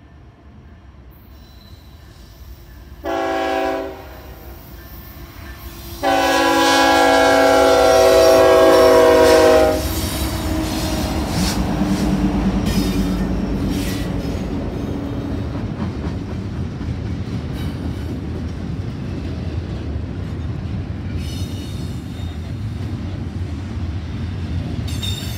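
Diesel freight locomotive's air horn sounding a short blast about three seconds in, then a long blast of nearly four seconds; as the locomotive passes its engine runs, followed by a steady rumble and clatter of double-stack container cars rolling by on the rails.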